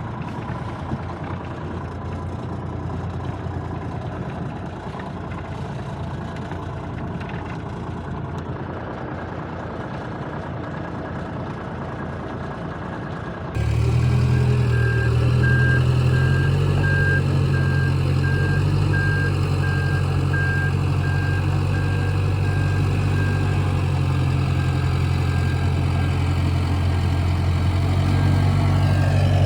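1985 Freightliner cabover's diesel engine running steadily. About halfway through, a sudden cut brings a louder low idle drone and a reversing alarm beeping at an even pace until the end.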